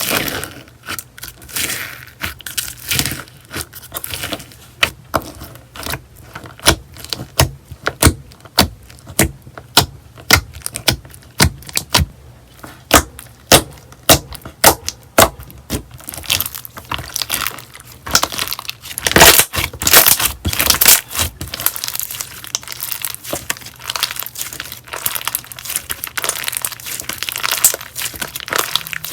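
Slime being worked by hand, giving sharp sticky pops and clicks a few times a second, which give way about halfway through to denser, continuous crackling.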